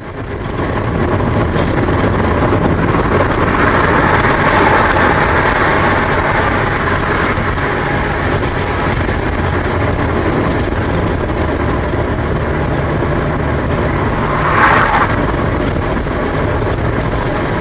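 Steady engine and road noise inside a moving semi-truck's cab, a dense low rumble with a rushing hiss over it. A brief louder rush comes about fifteen seconds in.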